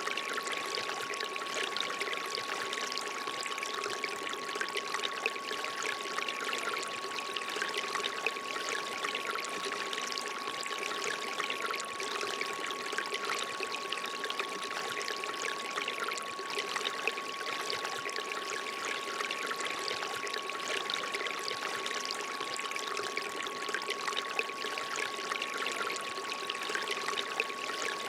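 Water trickling and pouring steadily from a bamboo fountain spout, with a steady pure electronic tone held under it.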